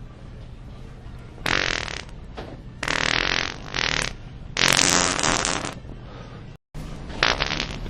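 Fart sound effects set off as a prank, four in a row: two long ones a second or so apart in the middle, and a short one near the end.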